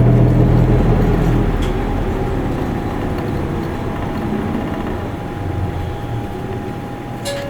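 Isuzu Erga Mio city bus heard from inside the cabin, its four-cylinder diesel and drivetrain running. The low engine hum is strong at first, then fades as the bus eases off and the sound sinks, with a faint steady whine throughout. There is a short click near the end.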